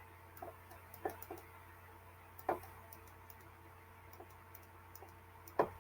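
A few scattered soft clicks and taps, the strongest about two and a half seconds in, over a steady low hum.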